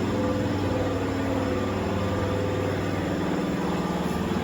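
John Deere 4250's freshly rebuilt six-cylinder turbodiesel running steadily after its first start-up following the powertrain reconditioning.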